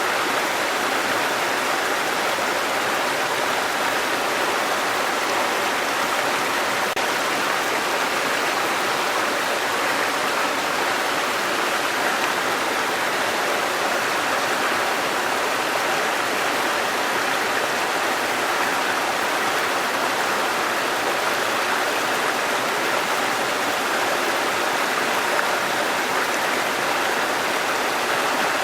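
Waterfall and rushing stream water, a steady even roar of falling and running water.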